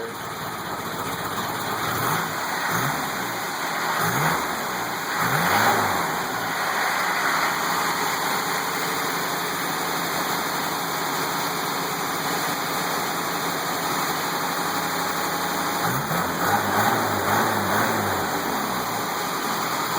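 Freshly rebuilt engine, with a newly planed cylinder head and a new muffler, running quietly at idle. It is revved up and down a few times near the start and again near the end.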